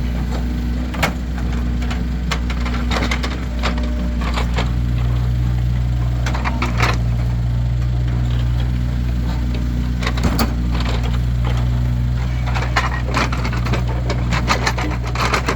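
Split firewood logs knocking and clattering against one another as they are stacked, in many irregular wooden knocks. Underneath is the steady hum of an engine running.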